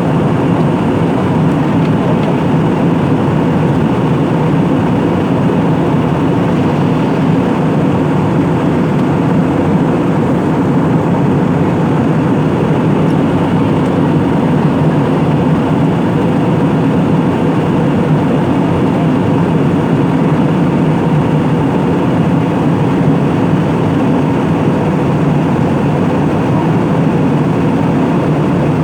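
Airliner cabin noise in flight: the steady drone of the engines and rushing air, unchanging throughout.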